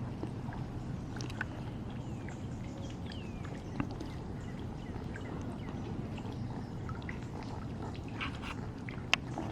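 Wild birds calling: scattered short chirps and a few falling whistled notes, over a steady low rumble of wind on the microphone, with a sharp click near the end.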